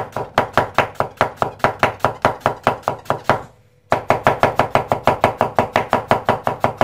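Knife rapidly chopping onions on a cutting board, mincing julienned strips fine: a fast, even run of knocks, about six a second, with a brief pause about three and a half seconds in.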